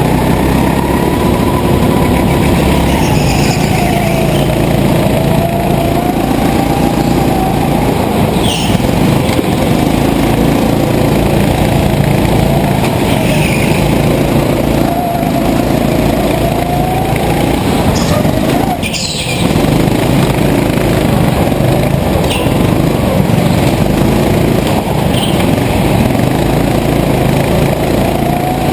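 Racing engines running hard, their pitch rising and falling continuously as they accelerate and back off. There is a short break about two-thirds of the way through.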